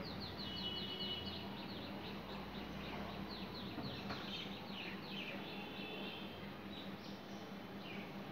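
Birds chirping in a quick series of short, falling notes, over a steady low hum.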